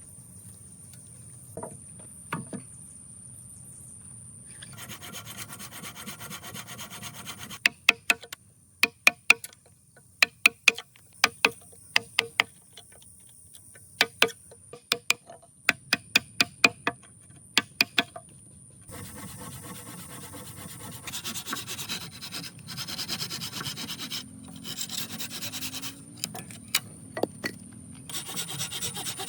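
Hand work on material: rasping, scraping strokes, with a run of sharp knocks or taps in the middle.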